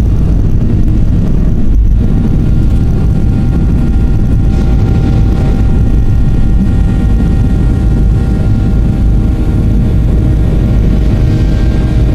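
Boeing 737-800's CFM56-7B turbofans at takeoff thrust, heard inside the cabin near the front: a loud, steady rumble with several steady whining tones on top, the highest rising slightly near the end.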